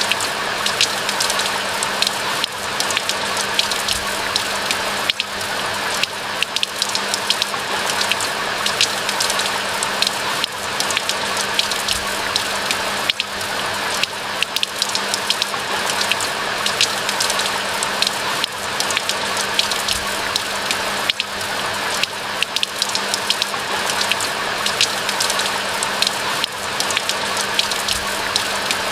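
Steady rain falling: a dense, even hiss dotted with many sharp ticks of individual drops.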